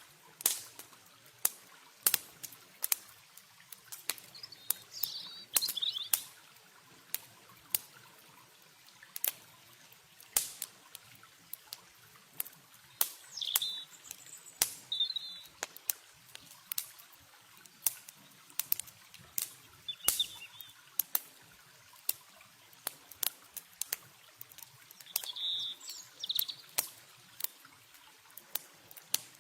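Campfire crackling, with irregular sharp snaps and pops. A few short bird chirps come now and then over a faint trickle of water.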